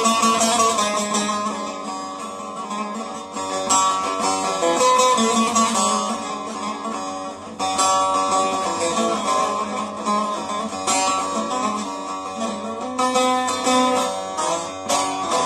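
Instrumental music with no singing: a plucked string instrument plays a continuous melody over accompaniment.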